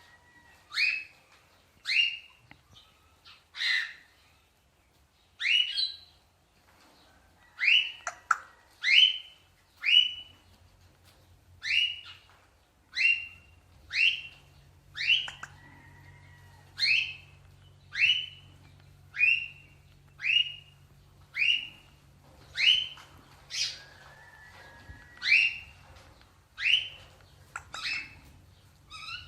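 A parrot giving short, sharp squawks over and over, about one a second, with a few faint whistled notes in between.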